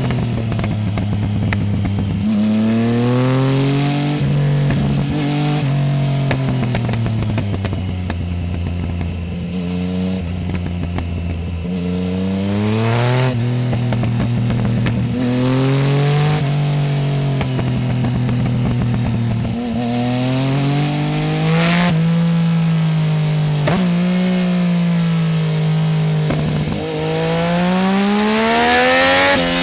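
Yamaha Tracer 900 GT's three-cylinder engine through a full Roads Italia exhaust without the dB killer, pulling through the gears on a winding road: revs rise and fall again and again, with pitch drops at the shifts and a hard climb in revs near the end.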